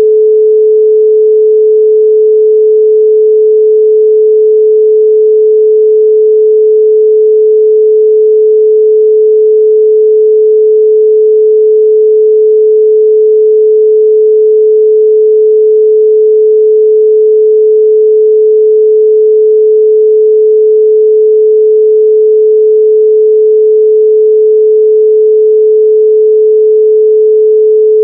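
Loud, steady 432 Hz pure sine tone: a single unchanging pitch with no overtones.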